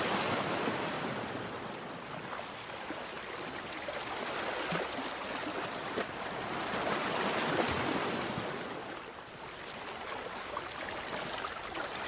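Sea waves washing up on a beach, a steady rush of surf that swells at the start and again about seven seconds in.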